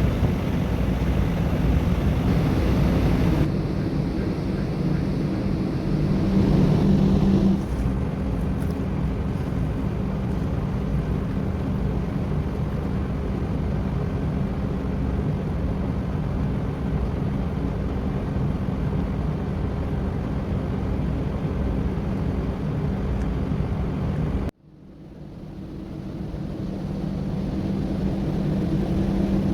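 Steady low drone of a large ship's engine during manoeuvring. It cuts out abruptly about 24 seconds in, then swells back up over a few seconds.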